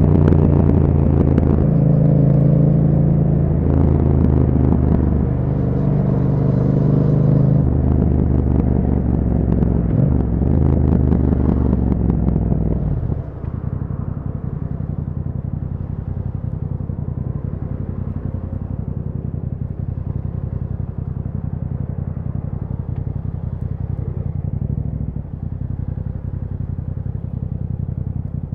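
Yamaha MT-07's 689 cc 270° parallel-twin engine through an aftermarket Akrapovic exhaust, under way, its note rising and falling with throttle and gear changes. About halfway through it drops to a quieter, steady low note.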